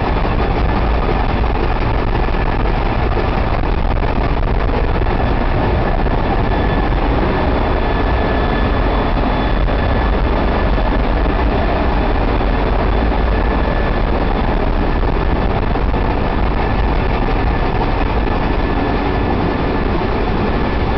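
Ship's engine-room machinery running: a loud, steady mechanical din with a thin, steady whine over it.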